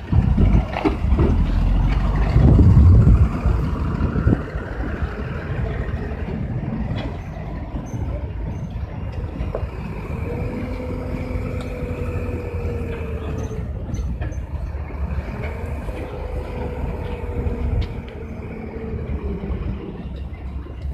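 Dumper truck's diesel engine running, louder for the first few seconds, then settling to a steady run with a faint whine that rises and falls twice.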